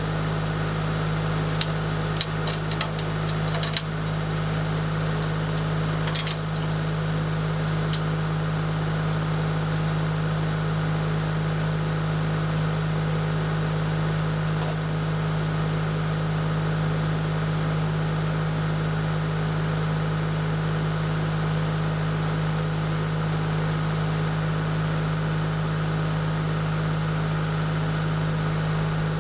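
An engine running steadily at idle, a constant low drone, with a few light clicks and knocks in the first several seconds.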